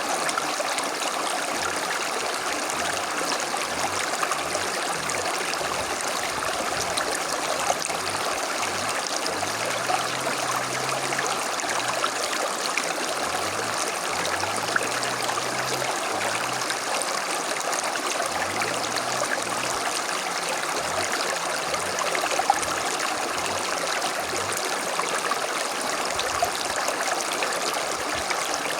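A small creek flowing over stones, a steady babbling and trickling of running water.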